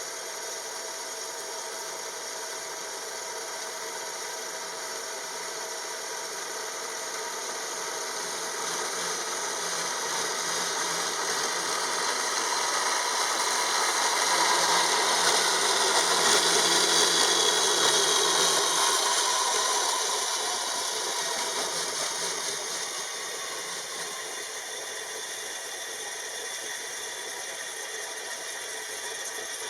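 A power tool's motor running steadily in a workshop, its sound swelling and growing rougher for several seconds in the middle before settling back.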